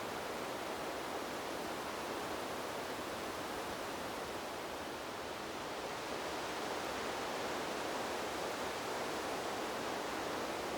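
Steady rushing of wind through trees, a smooth, unbroken noise that swells slightly after about six seconds.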